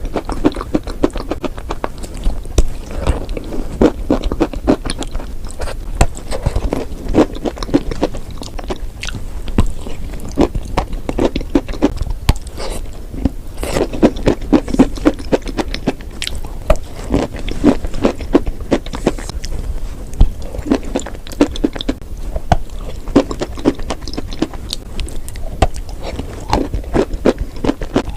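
Close-miked biting and chewing of edible chalk and clay: a steady run of crisp crunches, several a second.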